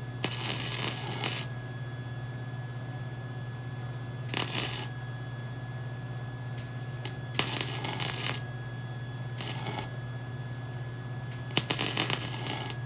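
Welder laying short stitch welds on thin minibike frame metal: five separate bursts of crackling arc, each a second or less, with pauses between them to let the thin metal cool so it doesn't drip through. A steady low hum runs underneath.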